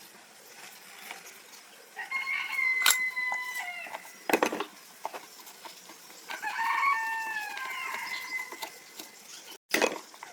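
A rooster crowing twice, each crow about two seconds long, with a few sharp knocks and clicks in between.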